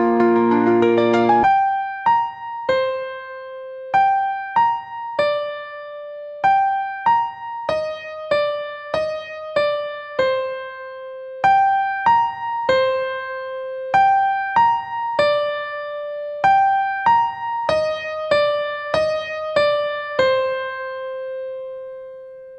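Calm instrumental electric piano music. A dense passage of chords gives way about a second and a half in to a slow melody of single struck notes, each dying away, ending on a long held note that fades out near the end.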